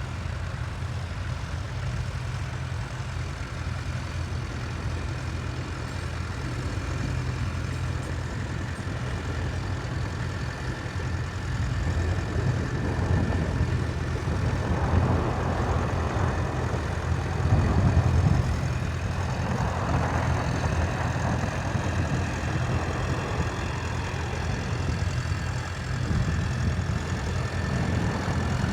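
Tractor engine running steadily while ploughing, getting louder in the middle as it draws close, loudest about two-thirds of the way through, then easing off.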